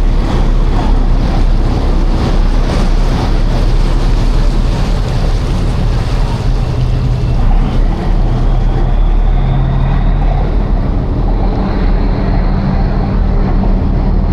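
Passenger ferry's engine running with a steady low hum under wind noise on the microphone and the rush of sea water along the hull. From about two-thirds of the way in, a faint high whine slowly rises in pitch.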